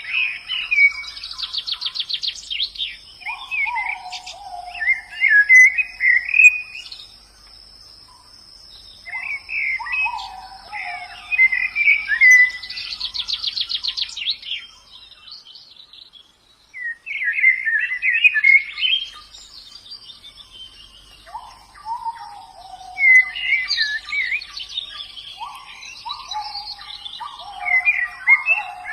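White-eyes (pleci) singing: bursts of quick twittering chirps with fast trilled runs and lower falling notes, broken by short pauses. A faint steady high-pitched tone runs underneath.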